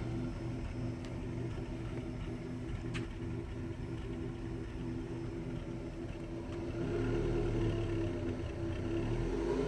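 Car engine running with a steady low drone, its revs and loudness rising about seven seconds in.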